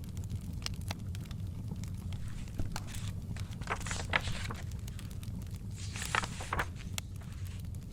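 Wood fire in a fireplace crackling with frequent sharp pops over a steady low rumble, and the paper pages of a book being turned twice, about four and six seconds in.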